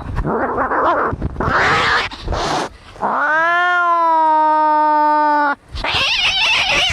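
Cats fighting: harsh, noisy screeches, then about three seconds in one long caterwauling yowl that rises and holds steady for some two and a half seconds, then more harsh screeching.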